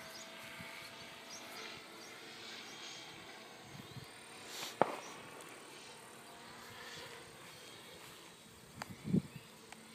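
Faint outdoor ambience with insects chirring steadily. A sharp click comes about halfway through, and a short dull knock near the end.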